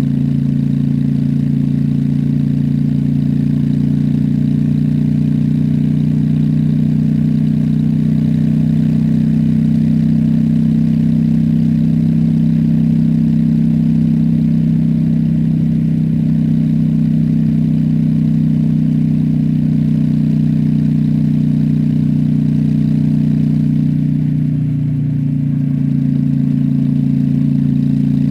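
Honda Shadow's V-twin engine running steadily while the motorcycle cruises. It eases off briefly about three-quarters of the way through, then picks up again.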